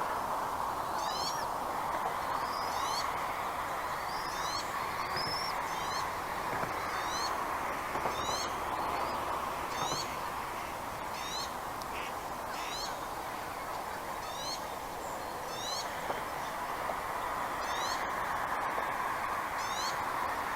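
Bald eagle giving short, high, rising chirps over and over, roughly one a second, over a steady rushing background noise.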